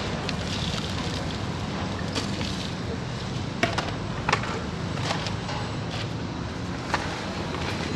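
Potting soil being scooped and handled, with a few sharp clicks and knocks against a steady low background rumble.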